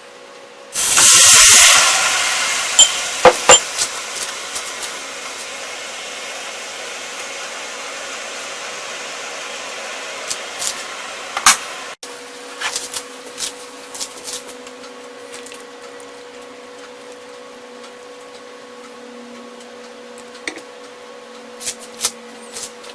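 Hot oil sizzling. It starts suddenly and loudly about a second in, then slowly dies down with scattered pops and crackles.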